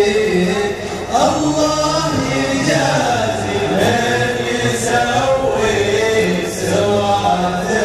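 Layered male voices chanting a sung Arabic poem, a cappella, over a steady low hum.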